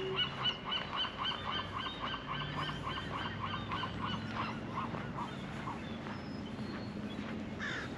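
A bird calling a fast run of repeated notes, about four or five a second, that fades out after about four seconds.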